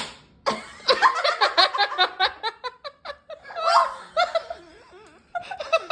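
Children laughing in rapid, high-pitched bursts, with a longer voiced cry about four seconds in. A short sharp click comes right at the start.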